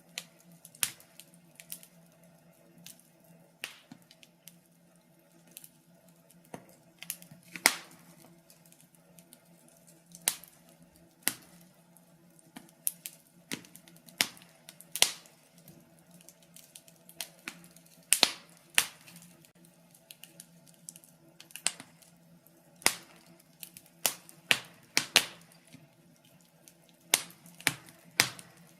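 Wood fire crackling in a fireplace: irregular sharp pops and snaps, a few every second or two, over a faint steady low hum.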